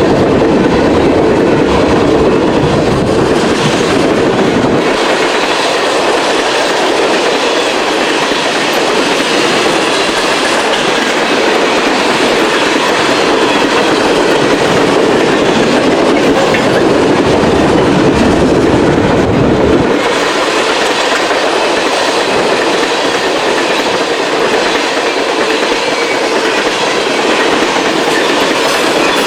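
Long freight train rolling past at close range, its wheels clacking over the rail joints. A deep rumble is heavy at first, falls away about five seconds in, and swells again for a few seconds before twenty seconds.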